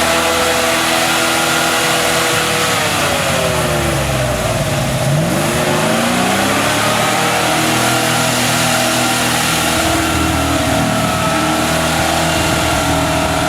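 GAZ-66 truck engine running under load, its revs sagging for a few seconds, then climbing back up and holding high.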